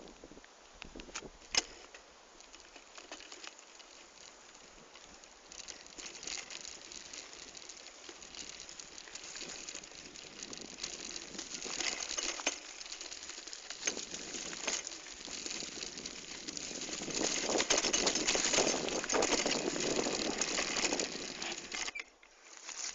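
Crunching and rustling of footsteps on a dirt and gravel forest trail, with a sharp click about a second and a half in. It grows louder near the end.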